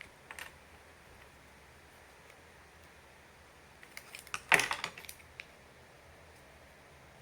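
Small hard parts clicking and clattering as they are handled: a short click near the start, then a quick burst of rattling clicks about four to five seconds in.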